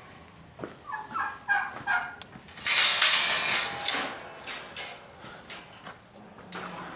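Turkey gobbling, a quick rattling run of notes about a second in, followed by a louder stretch of rustling noise.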